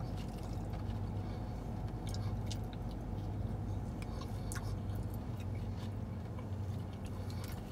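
Chewing, with small clicks and rustles from a plastic food container as fries are picked out and eaten, over a steady low hum.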